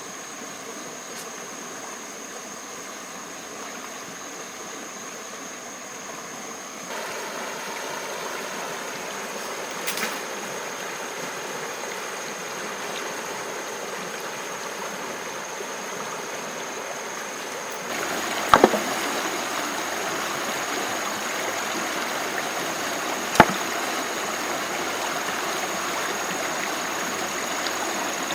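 Running stream water flowing steadily, growing louder in two steps about 7 and 18 seconds in, under a thin steady high whine. A few sharp knocks sound over it, the loudest a quick pair about two-thirds of the way through.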